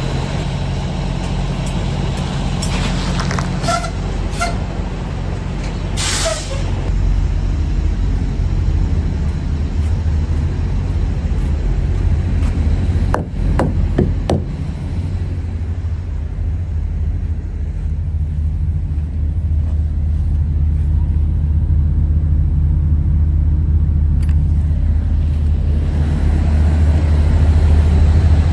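Semi truck's diesel engine running with a steady low drone that grows a little louder near the end. About six seconds in comes one short hiss of air from the air brakes, and a couple of light clicks follow a few seconds later.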